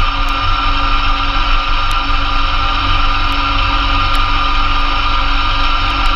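Massey Ferguson GC2300 compact tractor's three-cylinder diesel engine running steadily, driving a PTO-powered Blizzard B48 snowblower through snow.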